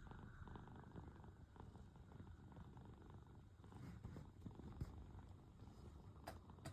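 Domestic cat purring faintly and steadily, a low continuous purr, with a faint click near the end.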